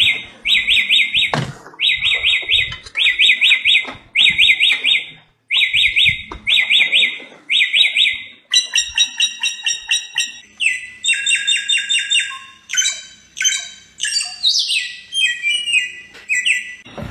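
Samyong songbird singing: a fast trilled phrase repeated over and over for the first half, then more varied song with clear ringing notes and falling whistles.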